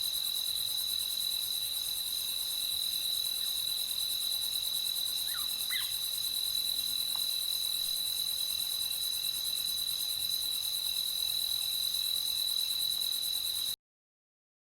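A steady nighttime chorus of crickets trilling in one high, continuous pitch, with a few faint short chirps about five to six seconds in. The sound cuts off abruptly into silence about a second before the end.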